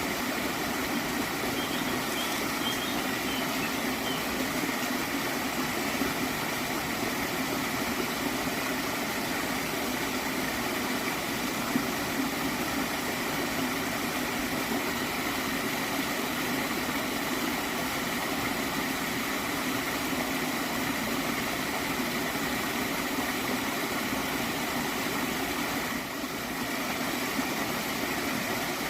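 Gently flowing water stream gurgling steadily, with a brief dip in level near the end.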